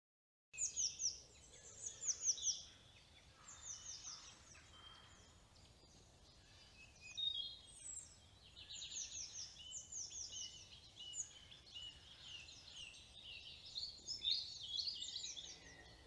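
Woodland birds singing, several songs overlapping, with quick runs of high falling notes; it begins about half a second in.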